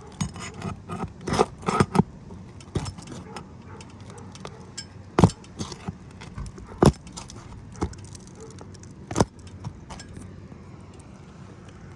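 Metal roof snake working under asphalt shingles to pull roofing nails: scraping with clusters of metallic clicks, then single sharp knocks, the loudest about five, seven and nine seconds in.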